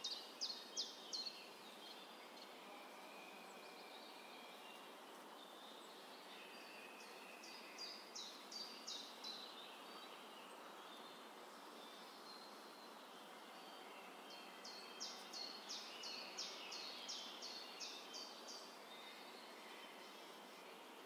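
A songbird calling in three runs of quick, high, falling notes, about three a second, over a faint steady outdoor hiss.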